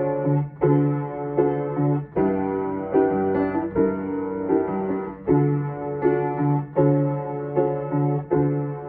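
Solo piano playing repeated chords, each struck about every three-quarters of a second and left to ring, with no singing.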